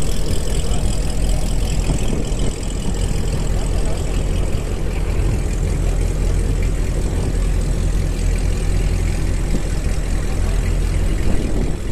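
A car's V8 engine idling steadily with a low, even sound.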